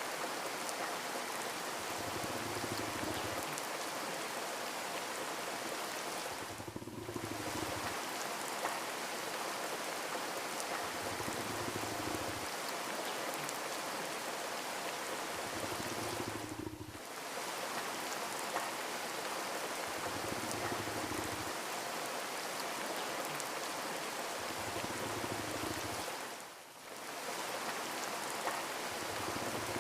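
Steady rain, an even hiss of drops, with a soft low rumble that swells every few seconds and a short dip in the sound about every ten seconds, as where a looped recording repeats.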